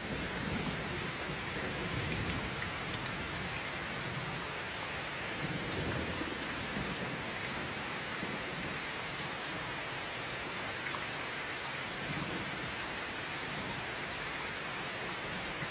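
Heavy rain falling steadily, a dense hiss with fine drop ticks, under a low rumble that swells and fades through the first half.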